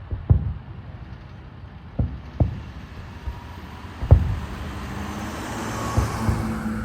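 Fireworks booming at a distance: five separate sharp thumps a second or two apart, over a steady low rumble, with a rushing hiss that swells in the second half.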